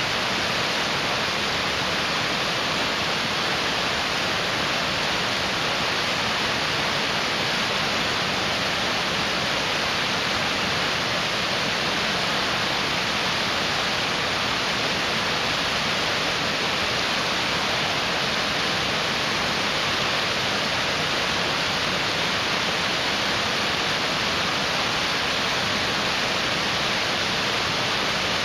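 Mountain stream rushing: a steady, even wash of water noise that does not change.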